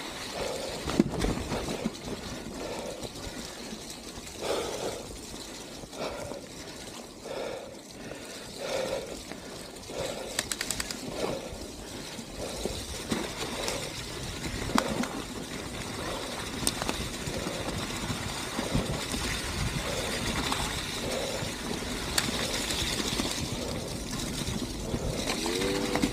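Mountain bike ridden along a wet trail: steady tyre and wind noise, with frequent knocks and rattles as the bike goes over bumps.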